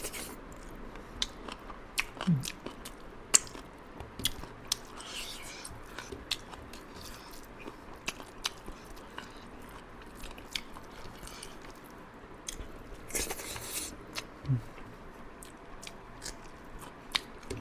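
Close-miked eating sounds of a person chewing and biting chicken liver and gizzard curry with rice: irregular wet clicks and mouth smacks throughout. There is a brief rushing noise about 13 seconds in, and two short low voice sounds, one about two seconds in and one near the 14-second mark.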